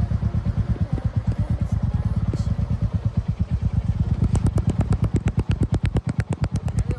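Exhaust of a 350 cc single-cylinder motorcycle idling: a steady, even run of thumps, about ten a second, which stand out more sharply in the last few seconds before stopping suddenly.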